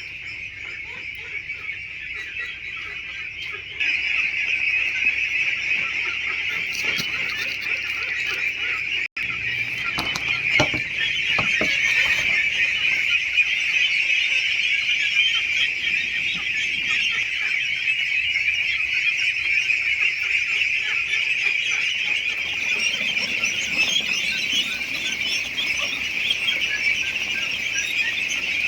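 A flock of Indian Runner ducklings peeping without pause, a dense chorus of many overlapping high calls, louder from about four seconds in, with a few knocks about ten seconds in.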